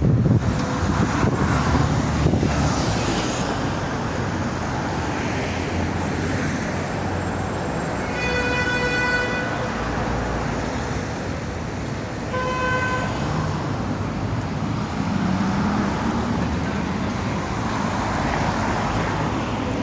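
Steady road traffic noise, with a horn sounding twice: a toot of a little over a second about eight seconds in, and a shorter one about twelve and a half seconds in.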